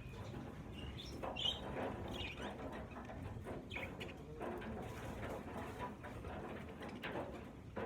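A flock of budgerigars chattering, many short chirps and warbles overlapping.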